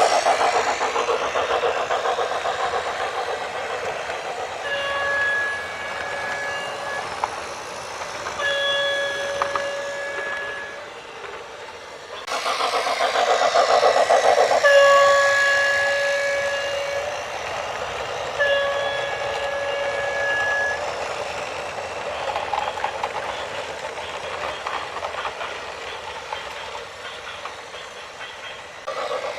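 A vehicle horn sounding repeated long blasts of one steady pitch, each about two seconds, over a continuous rumbling noise, with a louder burst of noise about twelve seconds in.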